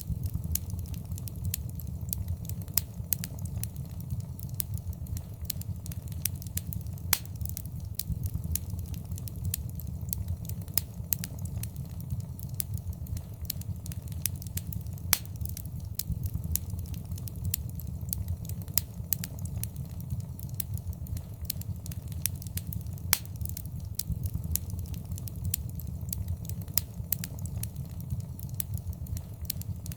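Wood fire burning in a fireplace: a steady low rumble of flame with irregular crackles and pops, a few of them sharper and louder than the rest.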